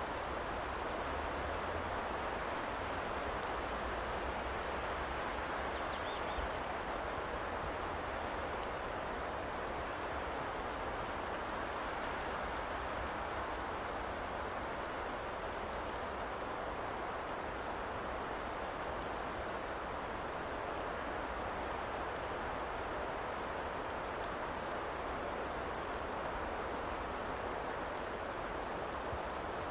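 Steady woodland ambience: an even rushing noise, with faint high chirps scattered through and a short falling call about six seconds in.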